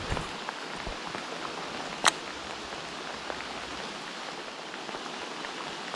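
Steady rain falling, with many small drops ticking close by and one sharp, louder tap about two seconds in.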